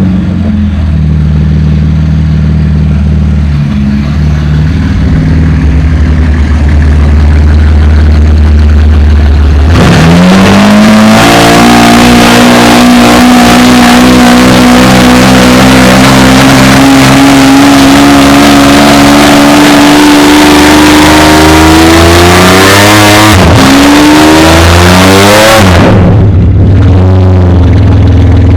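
A car engine running steadily at low revs, then accelerating hard about ten seconds in, its pitch climbing slowly through a long pull. Near the end there is a brief drop and climb, as at a gear change, before the engine note falls away.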